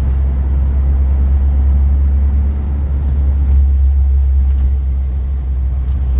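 Classic car driving along, heard from inside the cabin: a steady, loud low rumble of engine and road noise.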